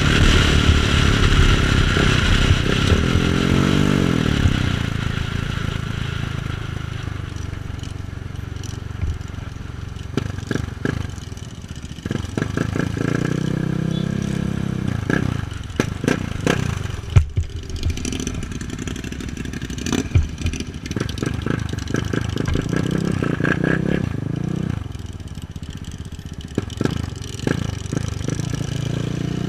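KTM 690 Duke's single-cylinder engine under way, its pitch rising and falling several times as the bike speeds up and slows. Wind rush on the microphone is strong at first and fades over the first few seconds.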